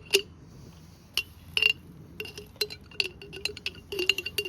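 Spoon clinking and tapping against a bowl while eating: a quick, irregular run of sharp clinks, each with a short ring.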